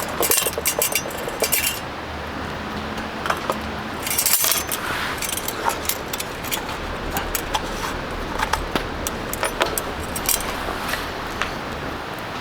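Handling noise: light clinks and rattles of small hard objects, in clusters near the start and around four seconds in, with scattered single clicks after, over a steady background hiss.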